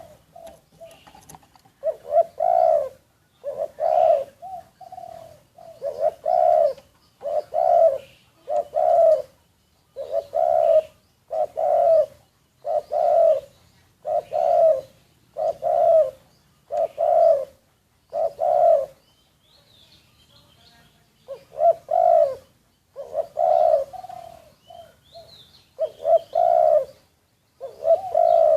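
Spotted dove cooing: a long series of low, evenly spaced coo notes, about one every second and a bit, breaking off for a couple of seconds past the midpoint before going on. Faint high chirps from a small bird come in during the pause and again later.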